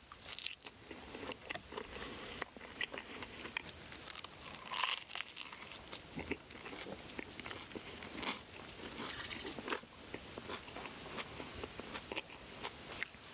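A person chewing and biting crunchy food close to the microphone, with irregular crisp crunches.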